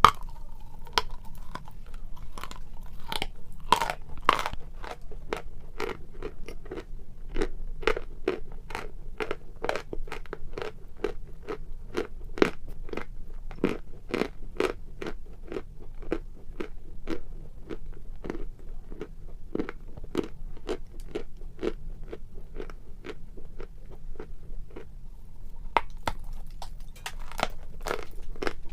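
A person chewing a mouthful of chalk close to the microphone, with steady crisp crunches at about two to three a second.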